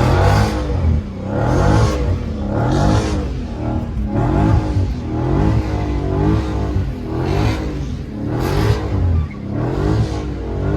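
Dodge Scat Pack's 392 (6.4-litre) HEMI V8 revving up and down over and over, its pitch rising and falling every second or so, with bursts of hiss as the rear tyres spin on wet pavement while the car does donuts.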